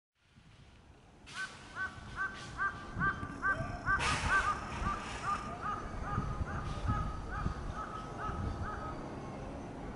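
A bird calling a long series of short, evenly spaced notes, about two or three a second, that starts a little over a second in and fades out near the end. A few brief scuffing noises are mixed in, the loudest about four seconds in.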